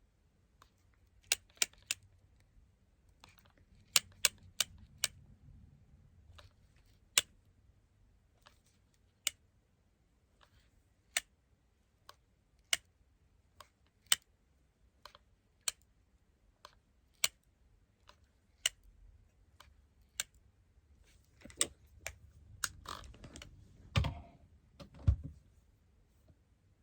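Hard plastic clicks and taps from a smartphone and small decoration parts being handled, spaced irregularly about once a second. Near the end comes a busier stretch of handling noise with two heavier knocks about a second apart.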